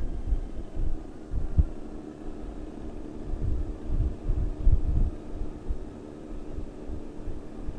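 Honda Gold Wing motorcycle engine running steadily at cruising speed, with wind buffeting the microphone in irregular low thumps.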